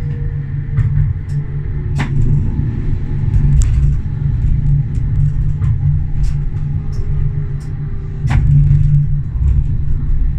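Tram running along the rails, a heavy steady rumble with sharp clacks from the wheels and track, loudest about two seconds in and again near the end. A faint whine falls slightly in pitch near the start.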